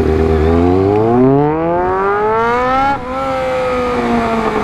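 Motorcycle engine with its muffler gone, running straight-piped: it revs up with the pitch climbing for about three seconds, drops briefly at a gear change, then the pitch slowly falls as it eases off.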